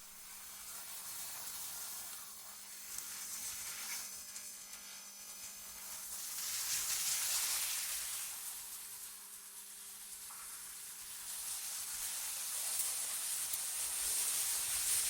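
Wind blowing in slow gusts, a high hiss that swells and fades twice, with a faint steady low hum underneath.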